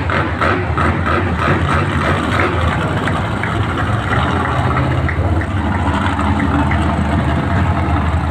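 Monster truck engine idling steadily.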